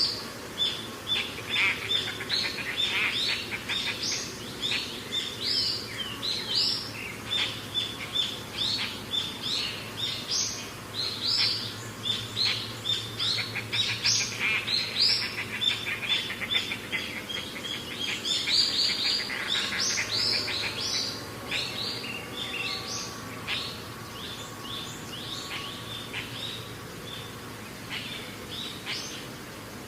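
A chorus of small birds chirping busily, with many short high chirps overlapping. They thin out and grow quieter in the last third. A faint steady low hum lies beneath.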